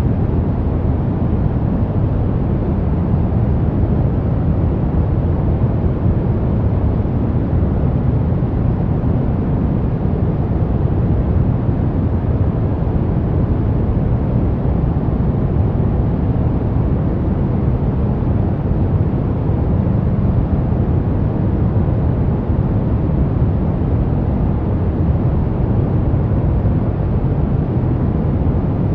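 Steady pink noise: an even, unbroken hiss weighted toward the low end, with no change in level.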